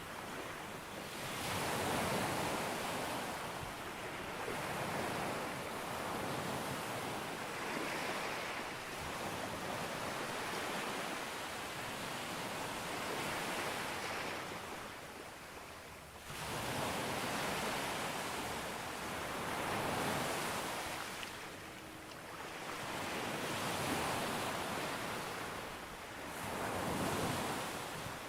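Ocean waves breaking on a sandy beach, a continuous hissing surf that swells and recedes every few seconds, with one sharp surge of a wave arriving about halfway through.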